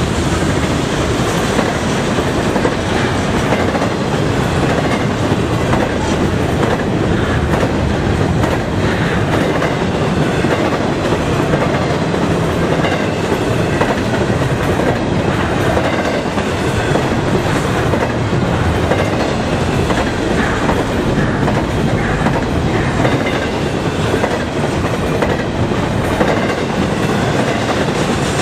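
Double-stack intermodal well cars of a freight train rolling past at speed: a steady, loud rumble and clatter of steel wheels on the rails.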